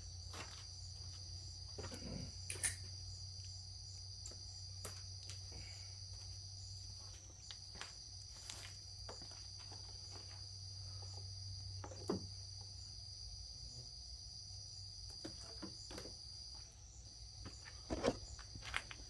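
Faint background with a steady high-pitched trill and a low hum, broken by scattered small clicks and knocks.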